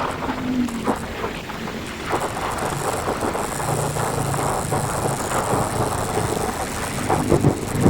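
Yamaha Vixion motorcycle's single-cylinder four-stroke engine, bored out to 177 cc, running through its stock muffler with the insides gutted, with wind buffeting the microphone.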